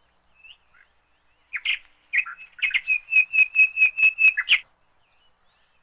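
A bird singing. A brief chirp comes about a second and a half in. Then a phrase of chirps ends in a run of evenly repeated notes, about five a second, that stops sharply.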